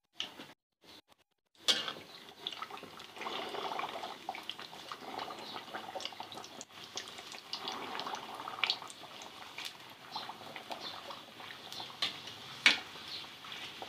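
Kachoris deep-frying in hot ghee: a steady sizzle with small crackles, starting about two seconds in after a short silence. A sharp click comes near the end.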